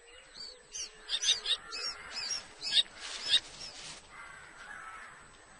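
Common kestrels calling: a run of short, high, repeated calls, a few a second, that stops about three and a half seconds in, leaving only faint background noise.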